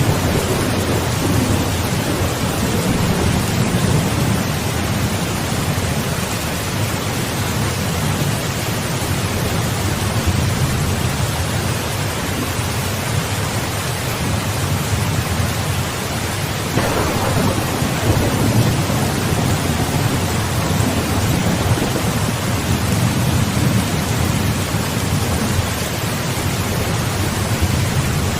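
Steady rain with thunder rumbling low and continuously. About two-thirds of the way through, a sharper thunderclap breaks in and rolls away.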